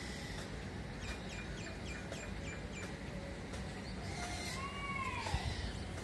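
Birds chirping: a quick run of about six short, high chirps, then a single drawn-out call that rises and falls, much like a cat's meow.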